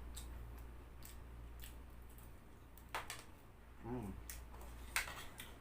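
Close-miked eating of a crispy fried chicken wing: scattered soft crunches and wet mouth clicks, with a short hummed "mm" about four seconds in.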